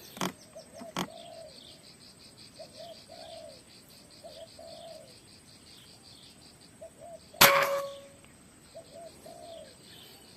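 Spotted dove (tekukur) cooing, its short phrase repeating every couple of seconds over a fast insect trill. About seven seconds in comes a single sharp, loud shot from an air rifle.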